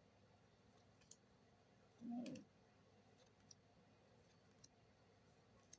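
Near silence with faint scattered clicks from trading cards being handled, and a short voiced murmur about two seconds in.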